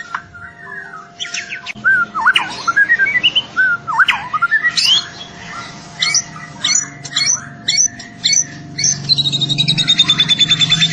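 Young white-rumped shama singing a varied song of loud whistled swoops and chirps, breaking into a rapid, even trill of repeated notes from about nine seconds in.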